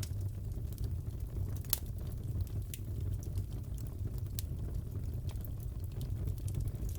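Wood fire crackling in a fireplace: a steady low rumble of burning with scattered sharp pops, the loudest just under two seconds in.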